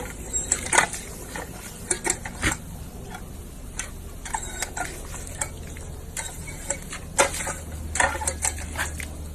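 Irregular series of sharp clicks and light clinks, like dishes or cutlery being handled, over a low steady hum.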